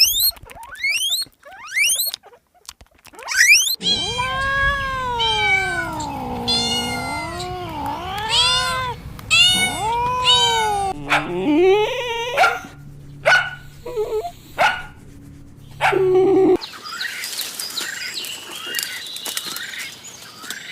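A run of different animal calls. Fast, repeated rising chirps open it. From about four seconds in come long, wavering cat meows and yowls, followed by shorter calls of other animals.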